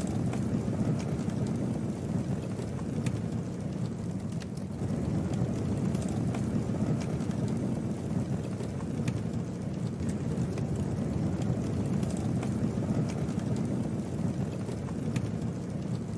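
Campfire burning: a steady low rush of flame with scattered sharp wood crackles and pops.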